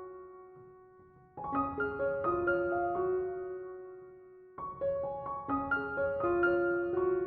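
Gentle background piano music: short phrases of struck notes that ring and fade, with a new phrase starting about one and a half seconds in and another near the middle.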